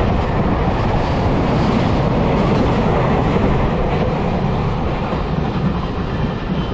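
Container freight train's wagons passing through at speed close by, a steady loud rush of steel wheels on rails that eases slightly near the end as the last wagon goes by.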